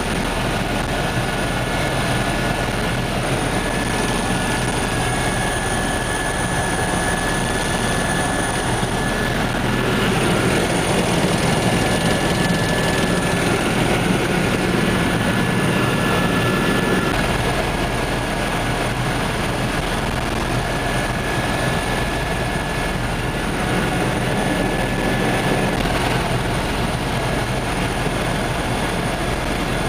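Helicopter in flight heard from on board: a steady drone of rotor and engine with a thin, constant high whine, swelling slightly in loudness around the middle.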